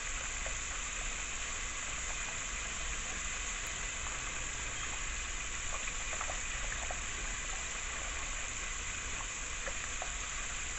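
Chicken wings deep-frying in hot oil: a steady sizzle with scattered small pops.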